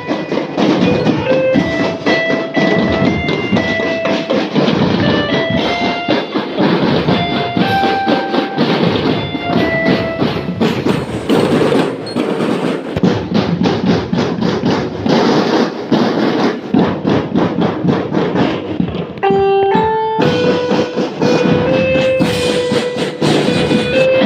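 Marching drum band playing: snare and bass drums beating a dense, steady rhythm under a melody of held notes that step up and down.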